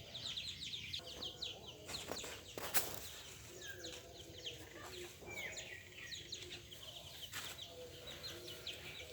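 Chickens calling: a dense run of quick, high, falling chirps with lower clucking notes, and a few sharp knocks.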